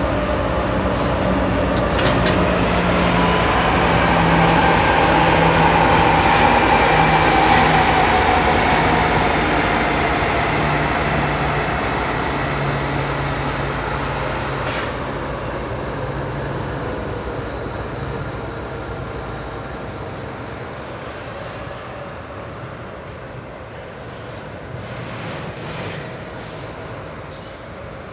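A train passing by. It grows loudest about seven seconds in, then slowly fades as it moves away.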